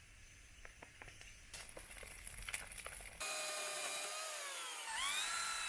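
Scraping noise with scattered clicks, then a power tool working into wood: its motor whine sags in pitch under load and climbs back as the tool frees up.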